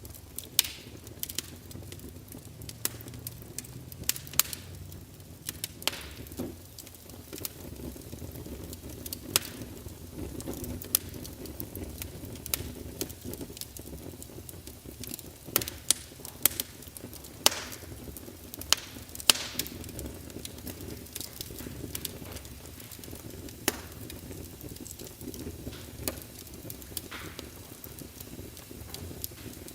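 Wood fire burning in a fireplace: logs crackling with irregular sharp pops and snaps, some louder than others, over a steady low rumble of the flames.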